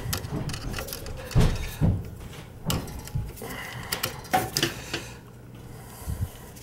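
Irregular clicks and knocks of hand work on a boiler gas valve: tools and small parts handled as wires are fastened to the valve's terminals. The loudest knocks come about a second and a half and two seconds in.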